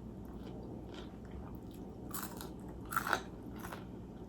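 A person chewing and biting food close to the microphone, with two louder crunchy bites about two and three seconds in.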